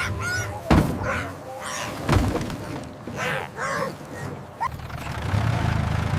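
Duck-like quacking calls, broken by two thuds about a second and a half apart, then a low steady hum near the end.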